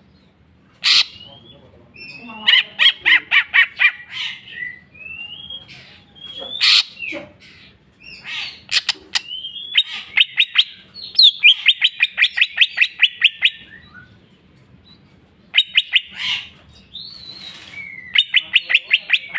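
Green leafbird (cucak ijo) singing a varied song: rapid runs of repeated sharp notes, several a second, broken by short sliding whistles and a few harsh chip notes, showing off its repertoire of learned calls.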